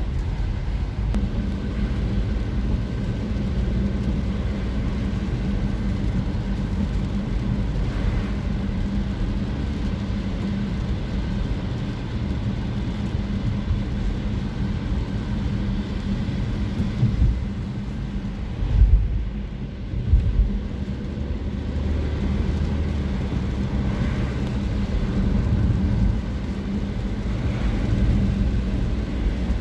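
Road traffic: a steady low rumble of car engines and tyres, with two brief louder swells about two-thirds of the way through.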